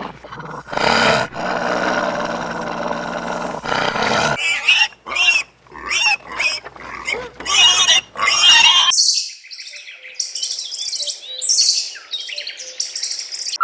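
A string of animal calls: one long, rough call for about the first four seconds, then a run of short, high-pitched calls, and from about nine seconds in, fainter, very high chirping calls.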